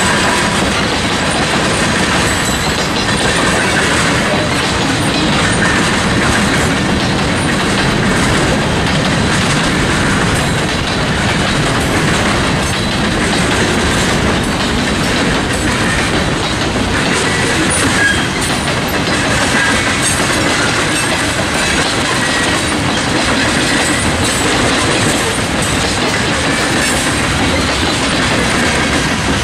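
BNSF freight train cars rolling past close by: a steady, unbroken noise of steel wheels on rail.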